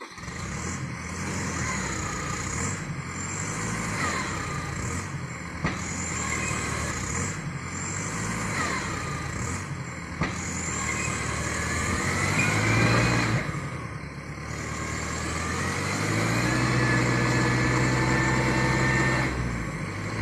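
Engine of a vehicle hauling oil palm fruit running under load, its revs rising and falling several times, then held high and steady for a few seconds near the end.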